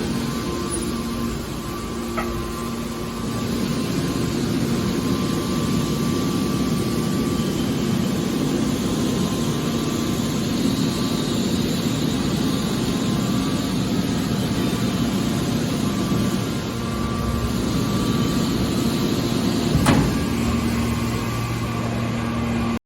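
Hydraulic metal baler running with a steady mechanical hum. There is a faint click about two seconds in and a sharp metallic knock about twenty seconds in.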